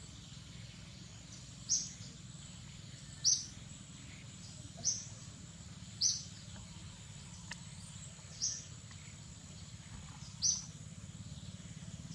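A bird chirping over and over: six short, high, falling chirps about every two seconds, over a steady high insect drone.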